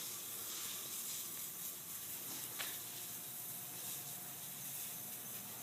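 Faint steady high hiss, with one short click about two and a half seconds in.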